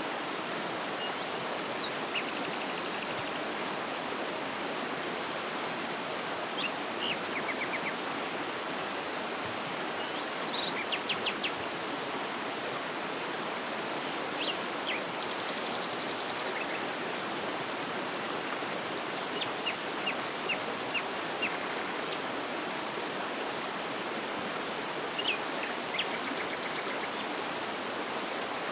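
Waterfall's steady rush of falling water, with small birds calling over it: short high chirps every few seconds and a few rapid, buzzy high trills.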